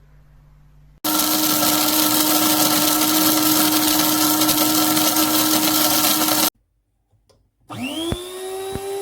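Amazon Basics electric coffee grinder's motor running at a steady pitch for about five and a half seconds, then cutting off abruptly. Near the end it starts again, its whine rising quickly in pitch as it spins up.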